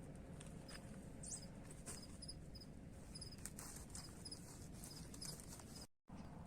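Faint night insects chirping in short high pairs and threes, repeating about every half second to second, with a few light clicks over a low background rumble. The sound cuts out completely for a moment near the end.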